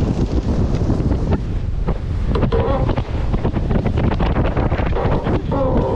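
Strong wind buffeting the microphone aboard an Extreme 40 racing catamaran under sail, over the rush of water along the hulls.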